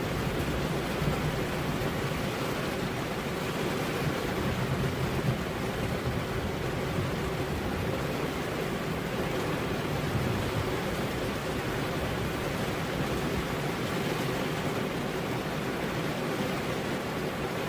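Steady rainfall, a continuous even hiss of falling rain.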